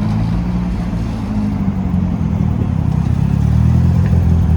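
A car engine running at idle with a steady low exhaust note, growing a little louder about three seconds in.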